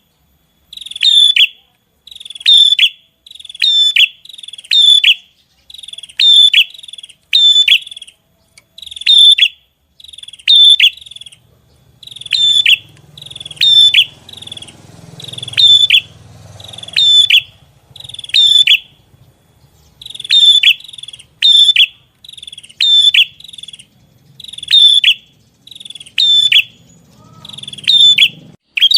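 A small songbird's short chirping phrase, repeated identically about once a second like a looped masteran recording used to teach song to kacer and murai batu. Each phrase is high-pitched and ends in a quick falling sweep.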